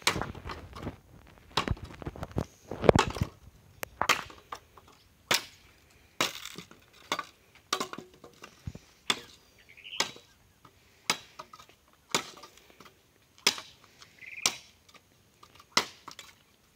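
Dry branches and wood cracking and knocking as they are handled and stacked on a bonfire pile: a run of loud crunches in the first few seconds, then single sharp cracks about once a second.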